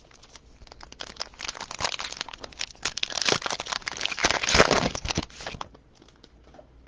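Foil wrapper of a trading-card pack being crinkled and torn open: a dense crackling that builds, is loudest about four and a half seconds in, and stops shortly after.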